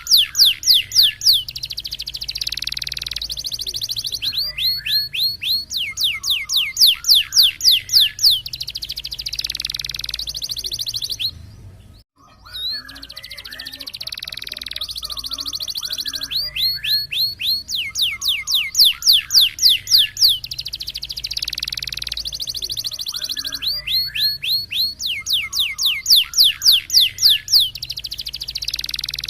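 Canary singing a loud roll-type song: rapid runs of repeated sweeping notes, about ten a second, alternating with buzzy rolling passages. The song breaks off briefly about twelve seconds in.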